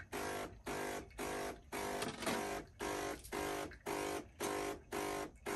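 DeLonghi PrimaDonna bean-to-cup coffee machine's water pump buzzing in short, even pulses, about two a second, as the machine runs a rinse cycle.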